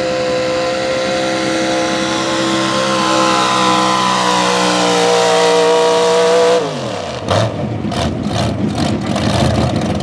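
Big-block V8 of a 4x4 pulling truck held at high revs under load, sagging slightly. About six and a half seconds in the throttle closes and the revs drop away sharply, followed by irregular pops and crackles as the engine winds down.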